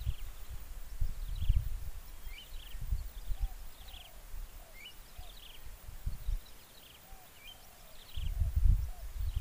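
Wild birds calling repeatedly outdoors: short high chirps and quick upward-curling notes, with a few lower curling calls among them. Bursts of low rumble come near the start and again near the end.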